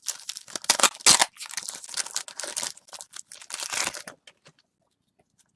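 Foil trading-card pack wrapper being torn open and crinkled by hand, a crackly rustle with a few sharp loud crackles about a second in, stopping after about four seconds.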